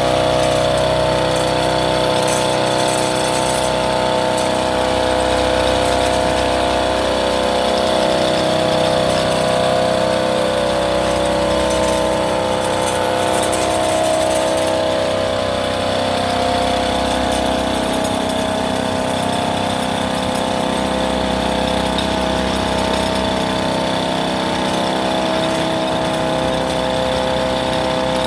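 Engine of an agricultural monorail running steadily at an even, unchanging pitch.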